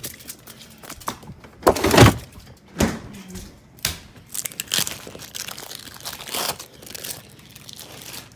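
Irregular knocks and thuds with crinkling, rustling handling noise, the loudest bang about two seconds in.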